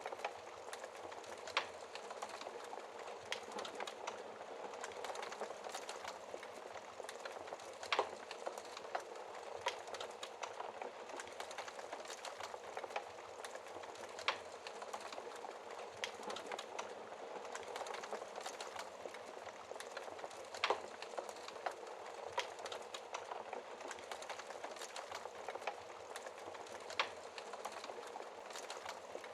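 Wood fire burning in a fireplace: a steady hiss with irregular crackles and pops, a few of them sharper, louder snaps.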